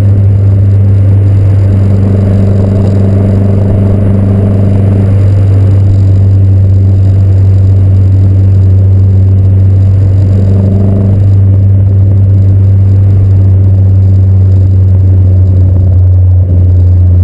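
2011 Mazdaspeed3's turbocharged 2.3-litre four-cylinder running at a steady engine speed, heard through a catted downpipe and aftermarket axleback exhaust: a loud, steady low drone. A higher tone swells over it twice, a couple of seconds in and again around ten seconds in.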